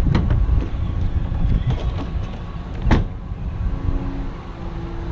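Wind rumbling on the microphone over a few sharp knocks and a louder thud about three seconds in, as an item is handled and set down at a truck. A steady low hum comes in near the end.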